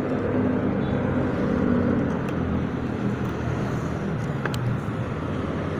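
Motorcycle engine running steadily at low revs, a continuous even hum.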